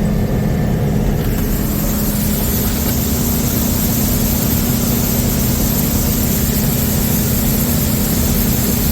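John Deere combine running steadily: an even engine drone with a strong low hum.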